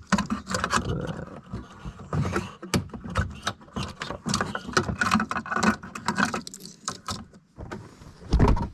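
Plastic wiring connectors being unplugged from a car's park distance control module, with irregular clicks and rustling of the wiring harness, and a louder thump near the end.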